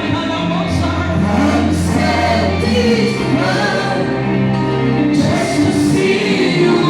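Gospel music with a choir singing over sustained bass notes.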